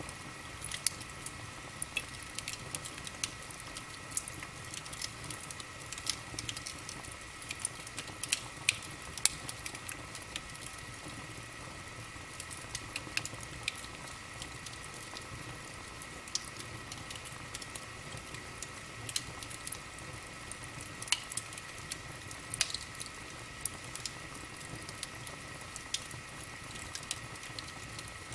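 Wood fire crackling in a fireplace: irregular sharp pops and snaps over a steady low hiss, with a faint steady high whine underneath.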